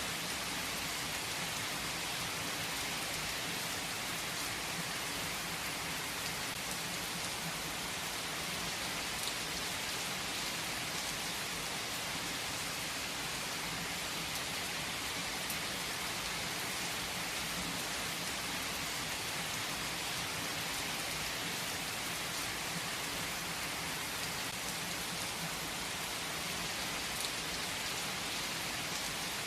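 Steady rainfall, an even hiss of rain on surfaces with occasional distinct drop ticks.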